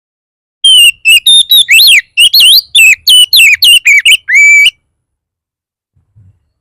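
Oriental magpie-robin singing a loud, fast run of varied whistled notes that sweep up and down. It starts about half a second in and stops after about four seconds. It is an aggressive, territorial song of the kind used to provoke other magpie-robins to answer.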